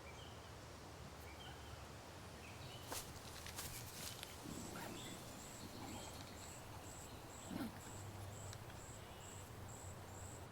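Quiet pine-forest ambience. From about halfway, a very high, thin note repeats about three times a second, and a few small clicks and snaps and faint short chirps are scattered through it.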